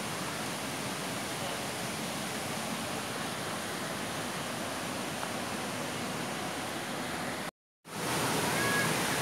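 Waterfall rushing: a steady, even sound of falling water. It cuts out for a moment about two thirds of the way in, then the water sound resumes slightly louder.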